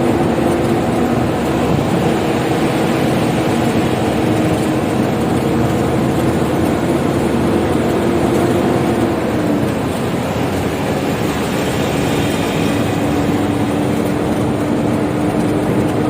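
Isuzu FTR truck's 6HK1 diesel engine running on biodiesel made from used cooking oil, pulling steadily on the road with tyre and road noise. The engine's drone holds one pitch, drops a little about ten seconds in as it slows or shifts, then holds steady again.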